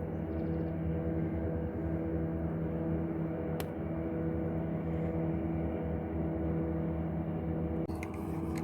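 Steady low mechanical hum with several held pitches, like a motor running, with a single sharp click about three and a half seconds in.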